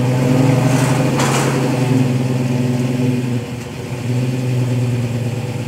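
1957 Chevy Black Widow's engine running steadily under light throttle as the car is driven up the ramps onto a car-hauler trailer. It eases off briefly a little past halfway, then picks up again.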